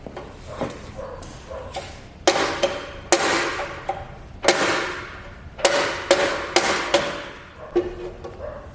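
A series of sharp workshop strikes, about seven irregularly spaced over several seconds. Each is followed by a ringing decay lasting around half a second.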